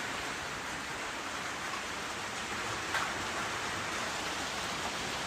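Steady rain falling, an even hiss with one small tap about three seconds in.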